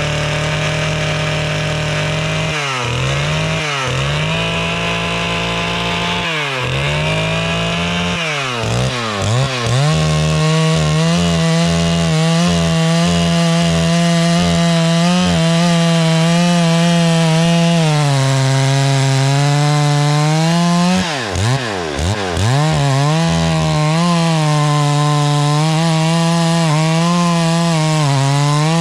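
Chainsaw running at high speed throughout, its engine pitch dipping sharply and recovering several times, with the deepest dip about two-thirds of the way through.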